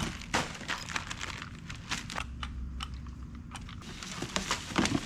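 Packaging and parts being handled: scattered crinkles, clicks and light knocks of plastic and cardboard.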